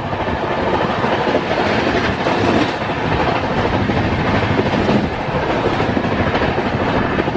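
Indian Railways passenger train running at speed: a loud, steady rush of wheels on track.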